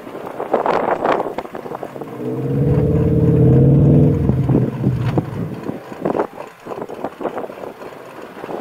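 A car engine runs up loud at a steady pitch for about two seconds in the middle, then fades. Wind buffets the outside-mounted microphone in gusts throughout.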